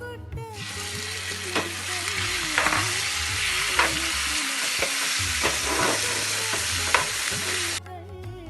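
Marinated chicken pieces sizzling as they fry in hot oil in a non-stick pan, with a few sharp knocks against the pan. The sizzle starts about half a second in and cuts off suddenly near the end.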